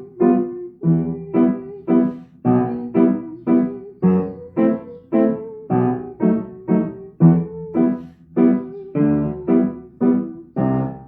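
A piano played: a steady run of notes and chords, about three a second, each one struck and then fading.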